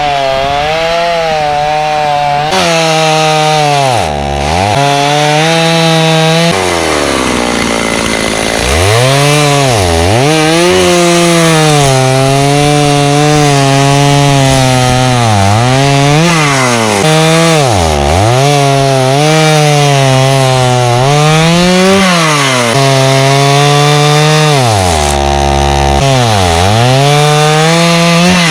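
Stihl 029 two-stroke chainsaw with a dull chain cutting dry jack pine. The engine runs at high revs, its pitch sagging again and again as the chain loads in the cut and climbing back as it frees, with one longer low stretch about a quarter of the way in.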